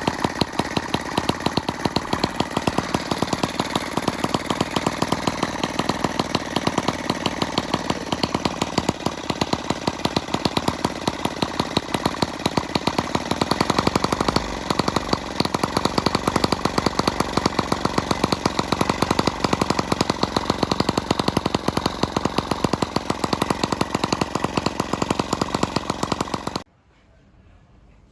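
Small model internal-combustion engine running steadily, each firing a sharp crack in a fast, even rhythm; it cuts off suddenly near the end.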